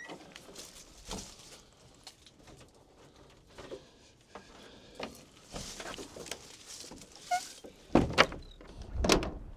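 Handling noises: scattered knocks and clatters as tools and parts are picked up and moved, with a few louder thumps near the end.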